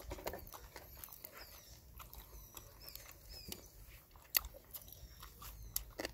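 Wet mouth sounds of a person chewing meat picked off the bone by hand: scattered sharp clicks and smacks, with faint high chirping calls in the background.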